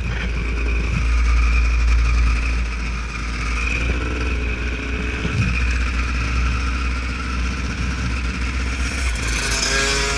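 Off-road motorcycle engine running steadily under a heavy low rumble, then revving up with a rising pitch near the end.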